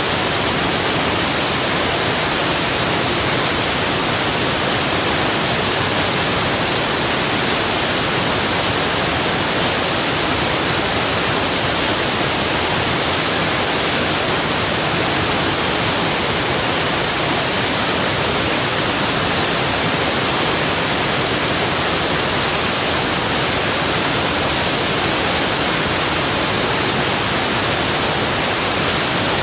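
Waterfall rushing steadily: an even, unbroken hiss of falling water with no changes.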